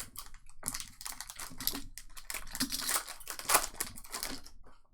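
Trading card pack wrappers crinkling and cards being handled in a run of quick rustles, which stop shortly before the end.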